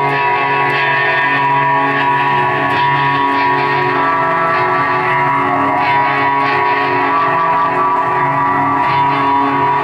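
Live guitar music: layered, sustained notes held at an even loudness, with no clear drum beat.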